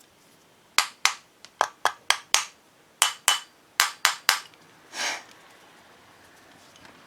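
About a dozen sharp taps of a hard object knocking on a hard surface, in quick, uneven succession, the kind made while working on carburetor parts. They are followed by one short rushing noise about five seconds in.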